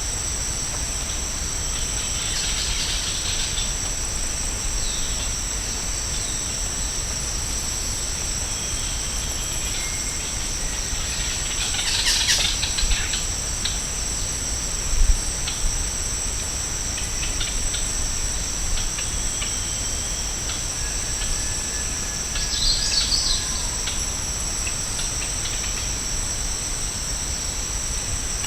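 Rainforest insects making a steady, high-pitched drone in two close pitches, with scattered short bird calls over it. One brief low thump about halfway through.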